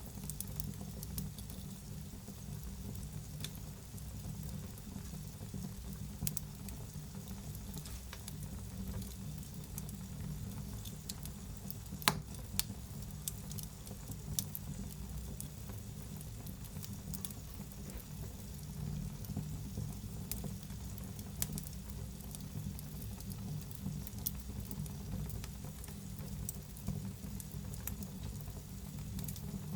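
Wood fire in a fireplace burning steadily, with a low rumbling hiss and scattered crackles and snaps, one sharper pop about twelve seconds in.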